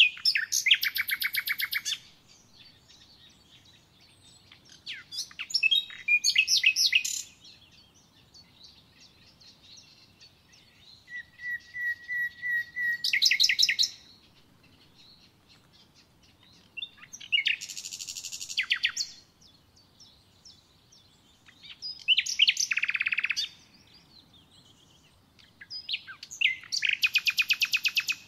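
A songbird singing short phrases of rapid trilled notes, one about every four to five seconds. One phrase opens with a held whistle before the trill.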